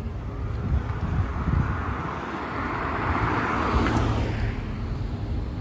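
A road vehicle drives past. Its noise swells from about a second in, peaks around three to four seconds, and fades away, over a steady low traffic rumble.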